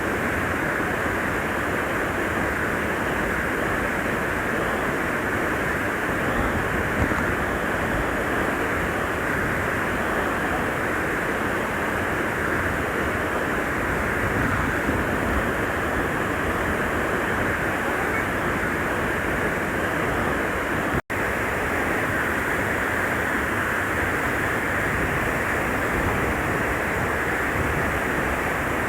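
Steady rush of a waterfall and stream water, an even roar with no change. It cuts out for an instant about three-quarters of the way through and carries on unchanged.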